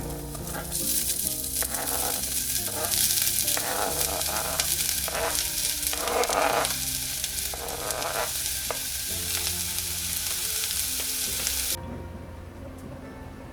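Food sizzling in a frying pan while it is stirred, with repeated scraping strokes. The sizzle cuts off suddenly near the end.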